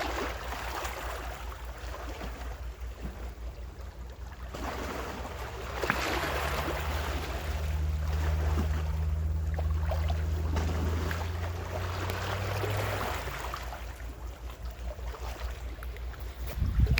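Ocean waves washing in and out in slow surges, over a low steady motor hum that grows louder in the middle and fades out near the end.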